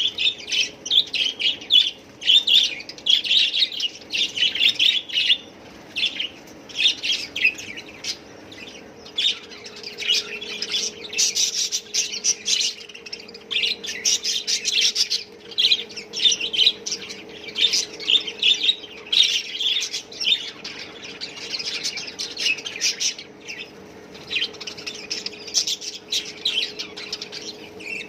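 A caged flock of budgerigars chirping and chattering continuously, with occasional squawks. A faint steady hum runs underneath.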